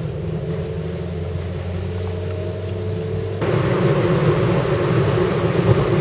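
Car driving, with a steady engine hum and road noise. A little past halfway the road noise suddenly gets louder and rougher.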